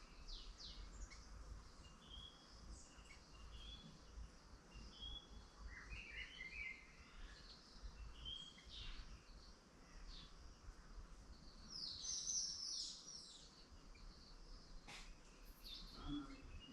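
Songbirds chirping and trilling in short, overlapping calls, with the busiest burst about twelve seconds in, over a low rumble of background noise.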